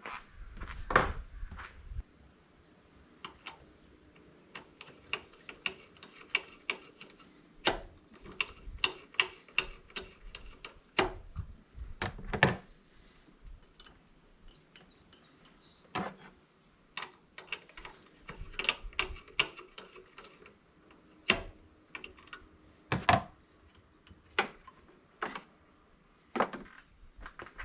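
Irregular clicks, clinks and knocks of hand tools and parts being handled while working on a car's belt tensioner, at times several in quick succession, with a louder knock about a second in.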